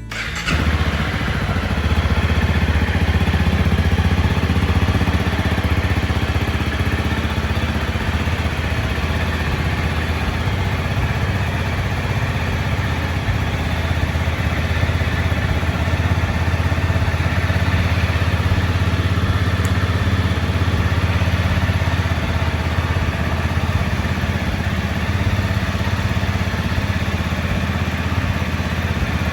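Honda CRF250 Rally's single-cylinder engine, fitted with an SP Tadao Power Box aftermarket exhaust pipe, idling steadily just after start-up.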